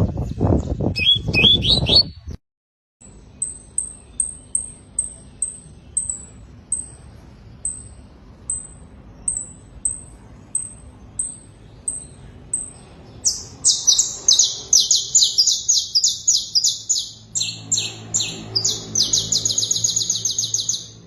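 Domestic canary singing. After a brief low rumble with a few rising chirps that cuts off, it gives a run of short high single notes about twice a second, then, about thirteen seconds in, loud rapid trills in several rolls that change tone.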